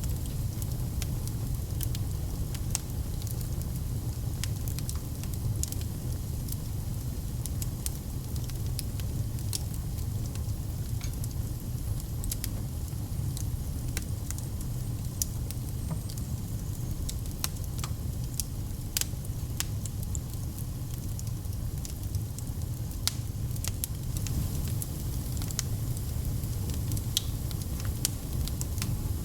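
Log fire burning in a fireplace: a steady low rumble of flames with frequent sharp crackles and pops scattered irregularly throughout.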